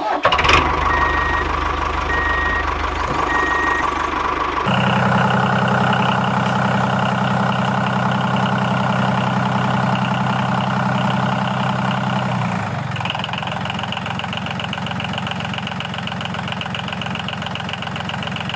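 Diesel tractor engine sound running steadily with an even beat. It changes abruptly in pitch and tone about 5 s and 13 s in, as if spliced from separate recordings. Three short high beeps sound in the first four seconds.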